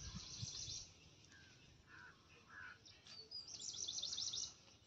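Faint bird chirping: two short bursts of rapid high chirps, one at the start and another about three and a half seconds in, with a few soft calls between.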